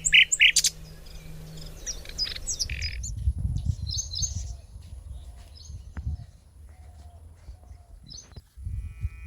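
Wild birds chirping in short calls, loudest and busiest in the first second, with fainter scattered calls later, over a low rumble.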